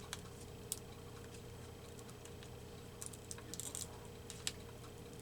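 Quiet handling of glued paper cutouts: scattered light clicks and taps, with a short scratchy rustle about three and a half seconds in, over a faint steady hum.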